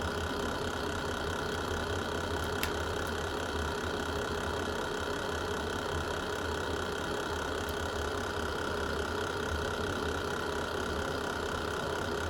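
Fireplace fire burning with a steady low rumble, and a single sharp crackle pop about two and a half seconds in.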